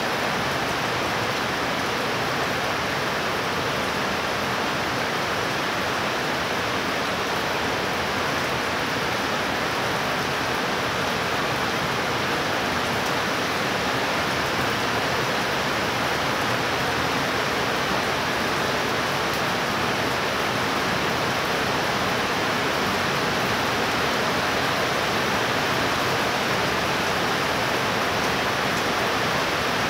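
Heavy rain falling in a steady downpour, a dense, even hiss that holds constant throughout.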